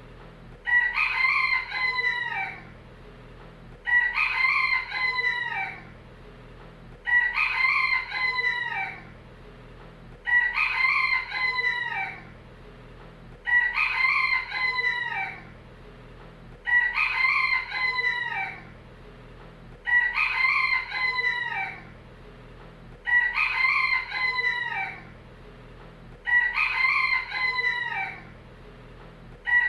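Rooster crowing, one near-identical crow repeated about every three seconds, about ten times, each crow lasting roughly two seconds.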